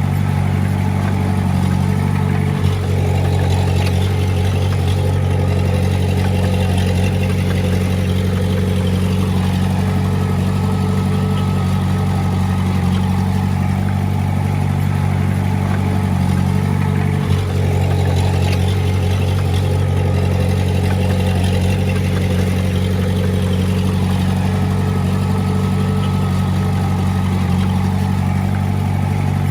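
Heavy-equipment diesel engine running steadily at a constant speed, broken twice by a brief dropout, about three seconds in and a little past the middle.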